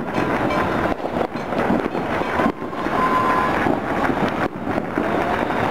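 Many firecrackers and fireworks going off at once across a city, their pops and crackles merging into a dense, continuous din, with a brief whistling tone about three seconds in.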